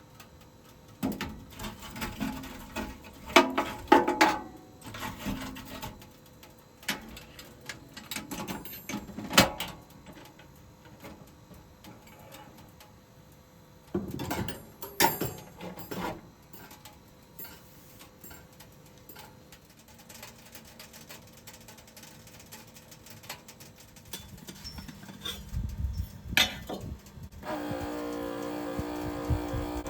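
Objects being handled in a small room: scattered knocks, clicks and rustling, with a steady pitched hum starting about two seconds before the end.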